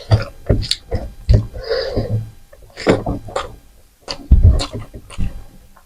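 Close-up chewing and lip-smacking of a person eating rice, dal and chicken: irregular wet smacks and clicks, a few each second, with short pauses between.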